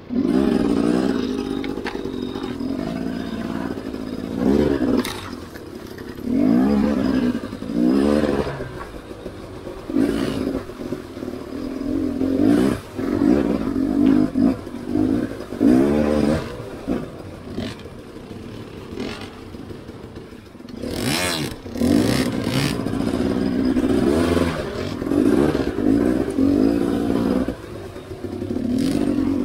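Enduro dirt bike engine heard close from the bike itself, revving up and down again and again while picking its way over rocks and creek water. Occasional knocks and clatter come through.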